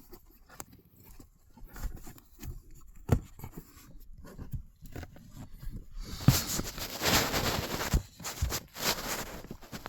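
Car floor carpet being handled and pushed back into place: scattered light knocks and taps, then from about six seconds in a few seconds of rustling and scraping with some thumps.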